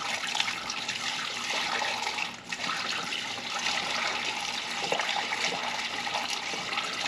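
Water pouring from an overfilled container into a car's empty cooling system, much of it splashing and spilling over: a steady rush with a brief break about two and a half seconds in.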